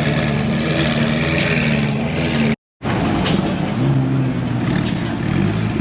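Car engine idling steadily, cut off for a fraction of a second about two and a half seconds in.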